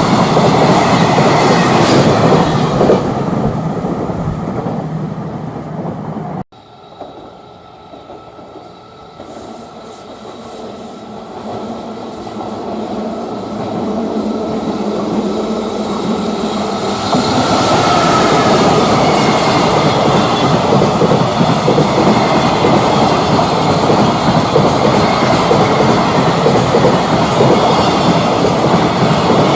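Container freight trains passing on the line, wheels clattering over rail joints. The first fades away until an abrupt cut about six seconds in. Then another train is heard approaching, growing steadily louder until it is passing close by.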